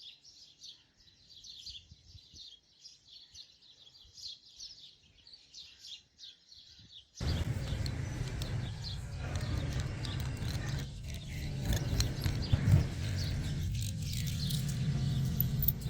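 Faint bird chirping, then about seven seconds in a much louder steady rushing noise starts abruptly and runs on with a few brief dips.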